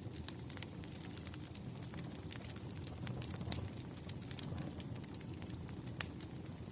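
Burning firewood crackling: a steady low rumble of the flames with irregular sharp snaps and pops, the loudest pop about six seconds in.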